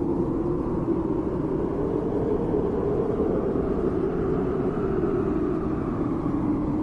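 Steady low rumbling noise with no clear pitch.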